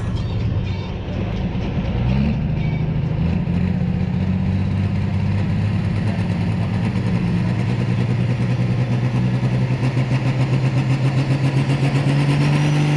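Engine of a pulling tractor running at the startline. Its pitch steps up about two seconds in and then holds steady. Near the end the sound throbs and a faint high whine rises.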